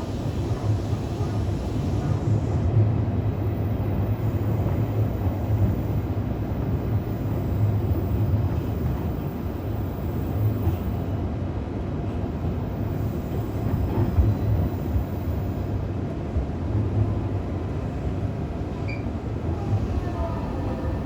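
Interior running sound of a JR East E531 series electric train with Hitachi IGBT inverter drive: a steady low rumble of wheels on rail, with faint gliding tones near the end.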